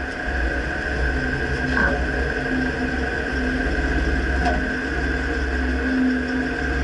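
Dodge Ram pickup running: a steady low rumble with a faint steady whine, and a light tap about two seconds in and another past four seconds.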